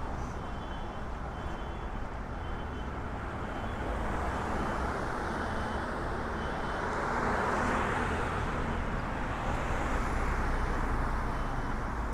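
Steady road traffic of passing cars, with one vehicle passing louder about seven to eight seconds in.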